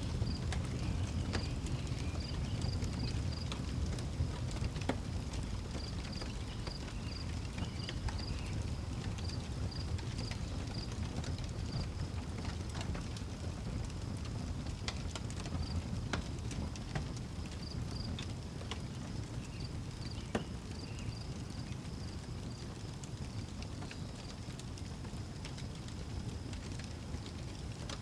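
Outdoor wood fire crackling, with scattered sharp pops over a steady low rumble, while a cricket chirps in an even rhythm of about three chirps a second.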